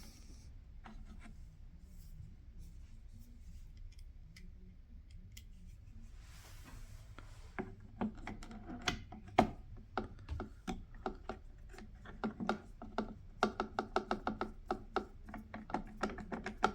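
Self-tapping screws being turned by hand into the plastic center console, with light handling sounds at first and then a run of rapid clicks from about halfway through as the screws are worked in.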